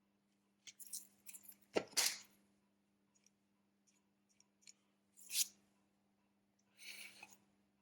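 Small tools and phone parts being handled during a smartphone repair: scattered light clicks and a few short scrapes, the loudest about two seconds in and again past the middle, over a faint steady hum.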